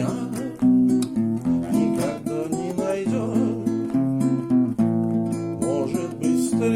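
Instrumental music with an acoustic guitar strumming chords under a wavering melody line: a Russian romance being played.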